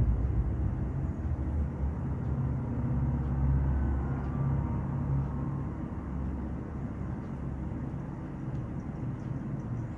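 Deep, steady rumble, as of a vehicle or engine, played back as a sound effect through a home-theater speaker system.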